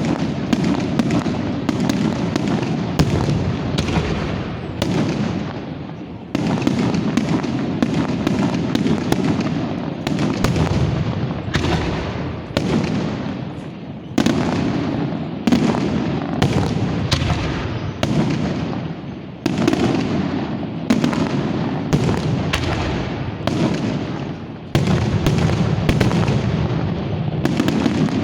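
Fireworks going off in a dense, continuous barrage. Sharp bangs and crackles come several a second, over a lingering rumble of echoes, with a fresh loud salvo every second or two.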